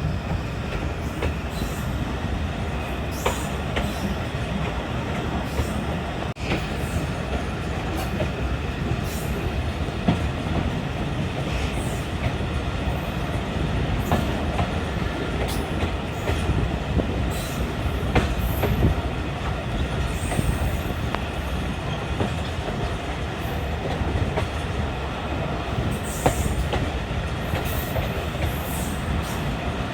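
Moving passenger train: the steady rumble of wheels on the track, with scattered clicks and a few brief high-pitched wheel squeals.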